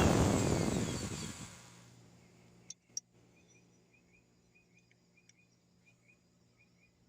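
Power drill turning an annular cutter spinning down, its whine falling in pitch and fading out over about two seconds. Then a low steady hum, two sharp clicks about three seconds in, and faint bird chirps repeating in the background.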